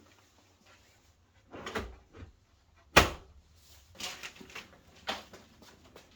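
Objects being handled inside an SUV camper during cleaning: rustling and scattered light knocks, with one sharp knock about three seconds in, the loudest.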